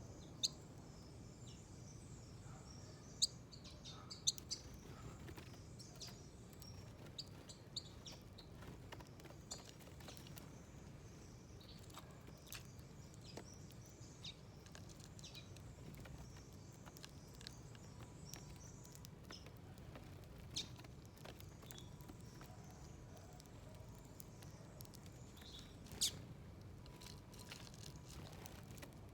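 Small birds chirping in short scattered high notes at a garden feeder, with a few sharp taps or clicks standing out. A low steady background rumble runs underneath.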